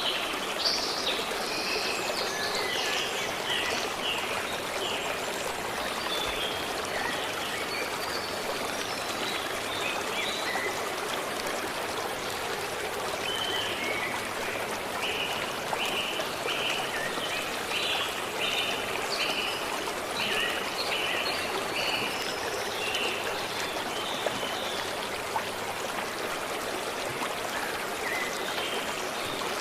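Stream water running steadily, with birds singing over it in series of short, quickly repeated high notes, heaviest in the first few seconds and again through the middle.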